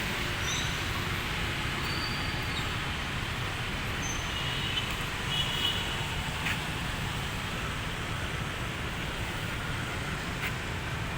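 Steady city road traffic: a constant rumble and hiss of passing vehicles, with a few faint high chirps over it.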